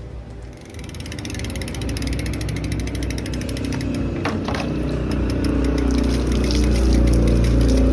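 Bicycle rear hub freewheel ratcheting in a fast, even run of clicks as the wheel or crank is turned, growing louder, with a couple of sharper knocks about four seconds in.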